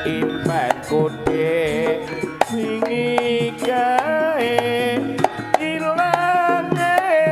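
Jaranan senterewe band music played as an instrumental passage between sung verses: hand-drum strokes under a lead melody that slides and bends in pitch.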